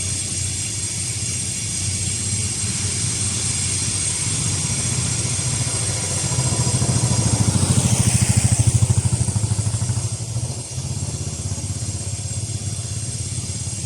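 A motor vehicle's engine runs steadily throughout. A vehicle passes close by about seven seconds in, growing louder with a pulsing engine note and then fading away.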